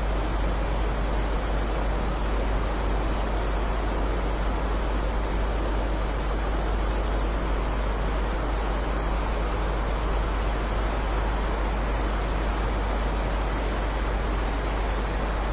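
Steady heavy rain, an even unbroken hiss with a constant low rumble underneath and no single drops standing out.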